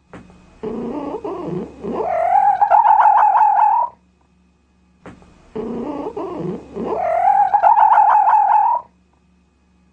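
Cat meowing: a short, lower, broken call runs straight into a long, wavering, drawn-out meow. The same sequence is heard twice, with brief quiet between.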